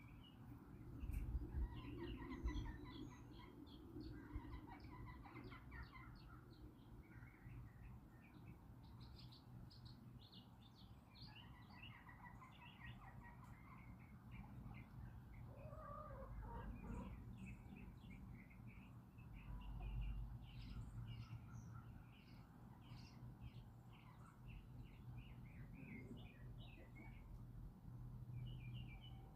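Small birds chirping and twittering throughout, with a lower call from a chicken about halfway through. Low rumbles about a second in and again about two-thirds of the way through.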